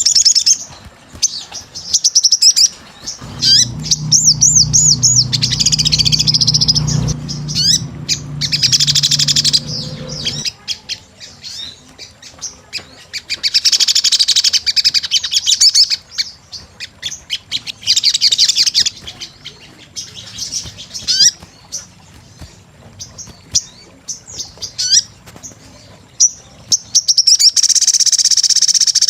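Ruby-cheeked sunbird (sogon) in full song: bursts of rapid, high-pitched chirps, trills and gliding whistles, repeated throughout. A low hum runs underneath from about three to ten seconds in.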